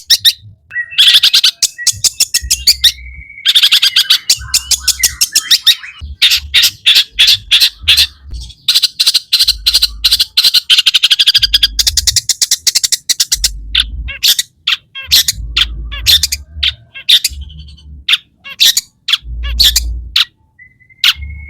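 Long-tailed shrike singing a fast, harsh chattering song of rapidly repeated high notes in runs broken by short pauses, with a few held whistled notes; the song is full of imitated calls of other birds.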